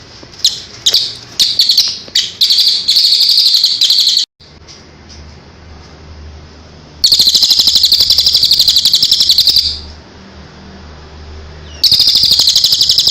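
A songbird singing: a few short high chirps that run into a fast, high trill, cut off abruptly about four seconds in, then two long rapid trill phrases of two to three seconds each.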